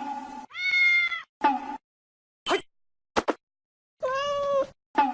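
A cat meowing in several separate calls: a long meow about half a second in, two short ones in the middle, and another long meow about four seconds in. Short snatches of music cut in between.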